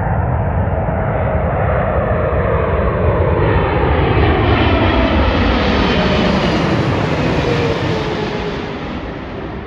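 Boeing 777-300ER's GE90-115B turbofan engines passing on landing approach: a loud jet whine and rumble that swells, peaks about midway, then fades, its tones sliding down in pitch as it goes by.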